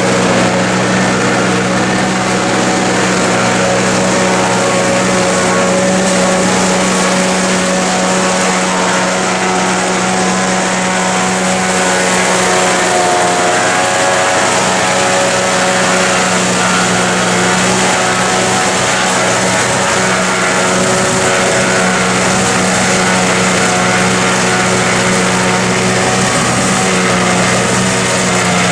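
Massey Ferguson tractor engine running steadily under load while driving a forage harvester cutting silage. The pitch wavers slightly about halfway through.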